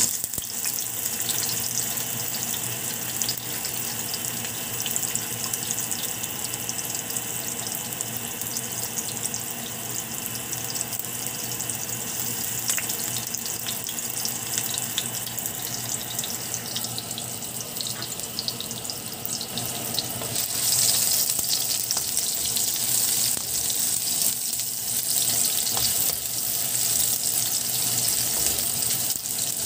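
Strips of ginger sizzling and crackling in hot oil in a non-stick wok. The sizzle starts suddenly as the strips hit the oil and grows louder about twenty seconds in.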